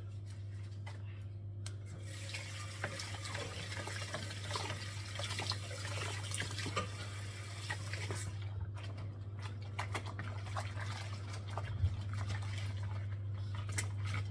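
Water running from a tap into a sink for about six seconds, starting about two seconds in, with small knocks through it; after the water stops, scattered light clicks and knocks.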